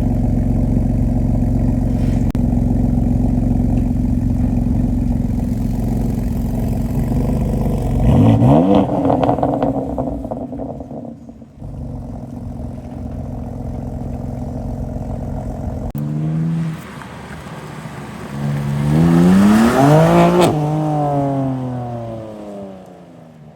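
Car engine idling steadily, then revved briefly about eight seconds in. Later an engine revs up and falls back down.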